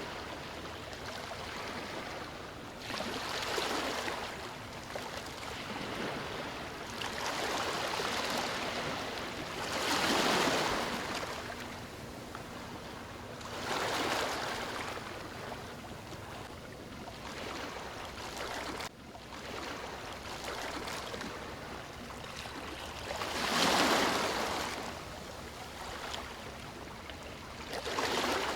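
Gentle surf on a beach: small waves washing in, a steady hiss of water that swells and falls away every few seconds, the strongest swells near the middle and a few seconds before the end.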